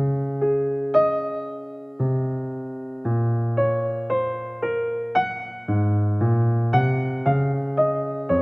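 Background music: a solo piano plays a slow, gentle melody over chords, each note struck and left to fade.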